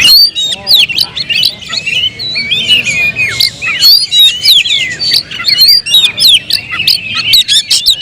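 Oriental magpie-robins (kacer) singing loudly, a dense, fast tangle of overlapping whistled phrases and sharp chirps that grows busier toward the end.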